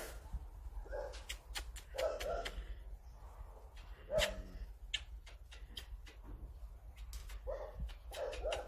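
A pet animal making short whimpering calls, often two or three in quick succession, repeated throughout, with sharp clicking sounds in between.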